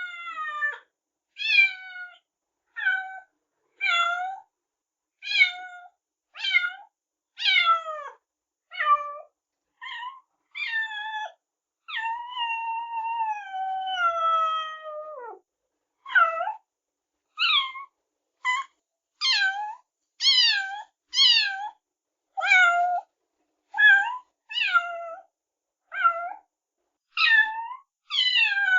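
A cat meowing over and over, about one short meow a second, each falling in pitch, with one long drawn-out meow about halfway through that drops away at its end.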